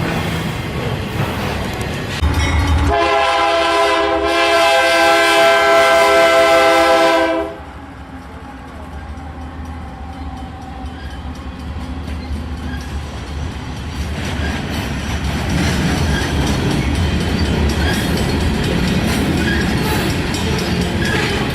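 Diesel freight locomotive's air horn sounding one long chord of several notes, about four and a half seconds, then cutting off sharply. Around it, the rumble and wheel clatter of the passing freight train, which grows louder again near the end.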